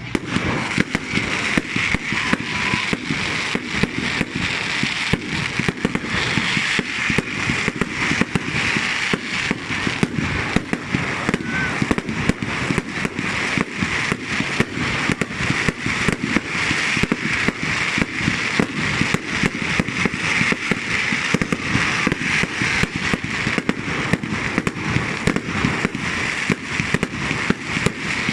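Fireworks going off in a dense, continuous barrage of rapid bangs, several a second, with a steady hiss and crackle beneath them.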